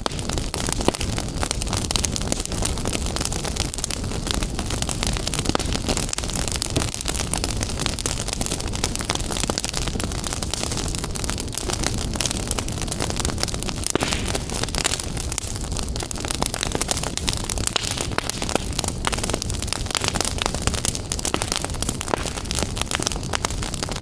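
Fireplace fire crackling: a dense, continuous run of small pops and snaps over a low, steady rumble of flames.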